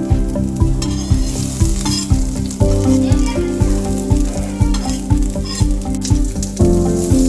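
Food sizzling and frying in a pan, heard under background music with a steady beat.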